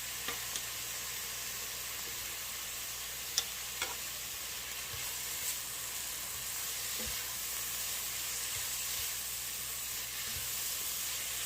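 Chopped carrots, celery, onion and garlic sizzling steadily as they sauté in chicken drippings in a pot, with a few light clicks in the first few seconds.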